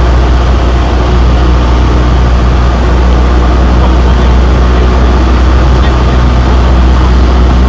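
Cessna 172's single piston engine and propeller running steadily, heard as a loud, even drone with a strong low hum inside the cabin.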